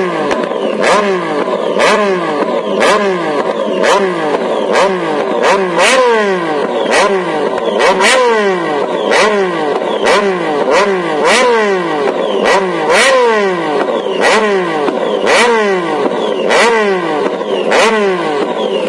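Triumph Street Triple 675's three-cylinder engine through a full 3-into-1 HP Corse exhaust, revved in quick repeated blips, somewhat more than one a second. Each blip drops back in pitch, with a sharp crack from the exhaust.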